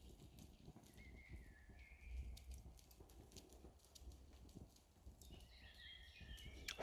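Faint outdoor forest ambience: scattered light clicks and crackles over a low rumble, with a small bird chirping about a second in and again in a longer run of calls near the end.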